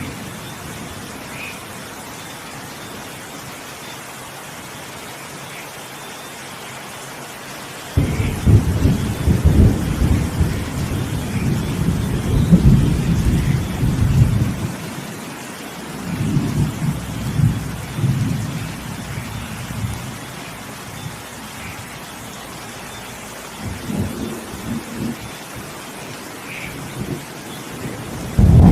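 Steady rain with rolling thunder. A loud crack of thunder comes in suddenly about a third of the way in and rumbles on for several seconds, with more, weaker rumbles after it and another sudden thunderclap at the very end.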